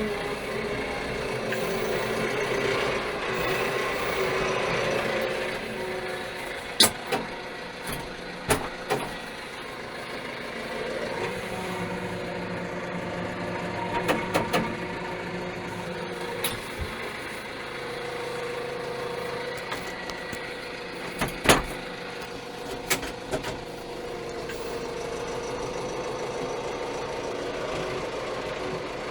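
Steyr 4075 Kompakt tractor's 75 hp four-cylinder FPT diesel engine running steadily, with several sharp knocks scattered through, the loudest about three-quarters of the way in.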